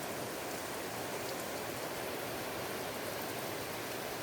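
Steady rain falling, an even wash of noise with no separate drops standing out.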